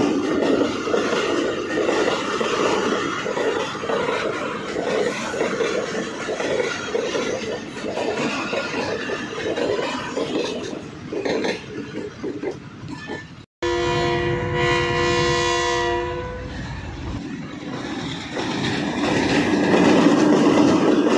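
Train running with the wheels clattering over the rail joints; just past the middle the sound drops out for an instant and the locomotive horn sounds, one steady chord for about two and a half seconds, before the clatter builds again.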